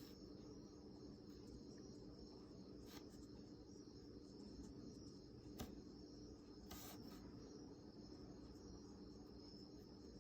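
Near silence: room tone with a faint steady hum and a thin high whine, and a few faint ticks.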